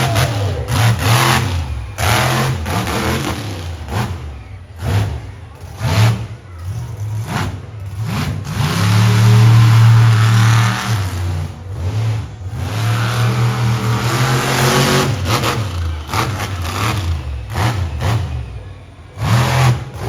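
Monster truck engine revving hard in repeated surges, its deep note rising and falling, broken by many sharp bangs; loudest about nine to eleven seconds in.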